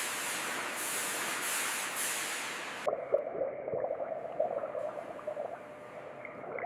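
Water spray hissing steadily. About three seconds in it cuts to a quieter, muffled, uneven water sound with a faint steady hum underneath.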